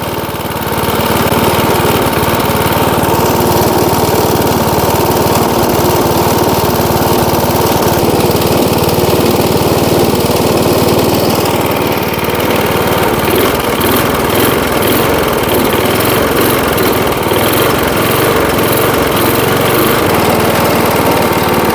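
A 1979 Rocket push mower's 3.5 hp Briggs & Stratton engine running steadily at idle, now running smoothly after a rough start that Marvel Mystery Oil helped clear. There is a slight change in its note about halfway through.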